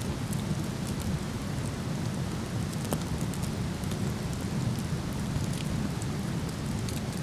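Steady low rushing of a waterfall, with scattered small crackles and pops from a wood fire burning.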